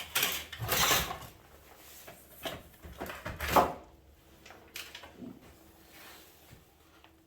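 Knocks and scrapes of a heavy microwave oven transformer being handled and set up for weighing. The loudest clunks come in the first few seconds, then it goes quieter.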